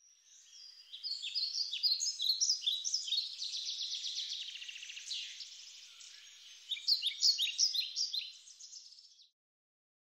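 Songbird singing: quick runs of high stepped notes and trills, broken by short pauses, stopping abruptly near the end.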